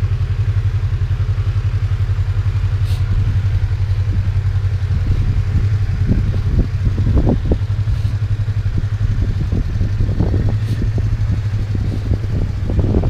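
Yamaha YZF-R25's parallel-twin engine idling steadily, heard from inside the rider's helmet. Irregular short rustles come in from about halfway.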